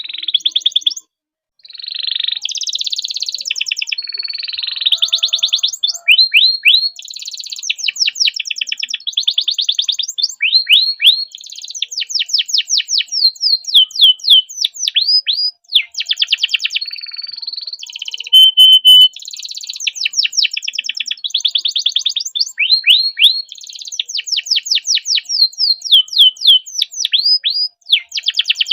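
Domestic canary singing a long, high-pitched song of fast rolling trills and runs of quickly repeated rising notes. The song breaks off only briefly, about a second in and again near the middle.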